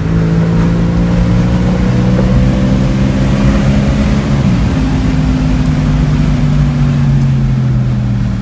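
Car engine heard from inside the cabin, its pitch climbing steadily as the car accelerates, dropping at a gear change about four and a half seconds in, then easing slightly lower, over steady road and wind noise.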